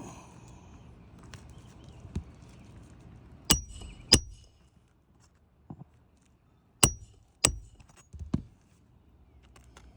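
Hammer striking a roof snake, the metal tool slid under the shingles to drive roofing nails: two pairs of sharp metallic strikes with a brief ring, about three seconds apart, plus a few lighter taps.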